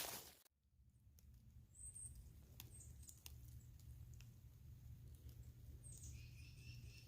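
Near silence with faint bird chirps: two short high chirps about two seconds in, then a quick run of chirping notes near the end.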